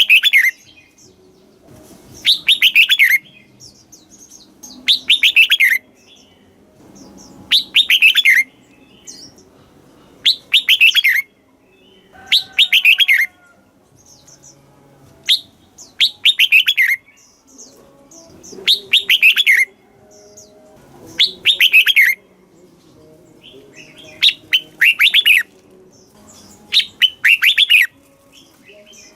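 Red-whiskered bulbul singing: short, bright, warbled phrases about a second long, repeated every two to three seconds.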